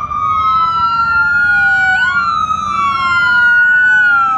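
Emergency vehicle sirens wailing: two overlapping sirens whose pitch slowly rises and falls, each cycle repeating about every two seconds.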